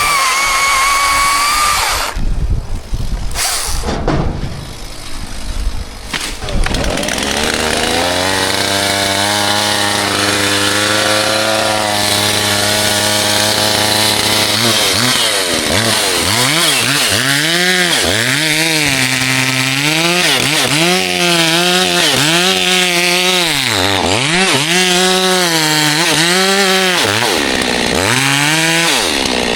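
Chainsaw engine running at a steady speed for several seconds, then revved up and down again and again, its pitch rising and falling with each throttle squeeze. This is typical of cutting wood.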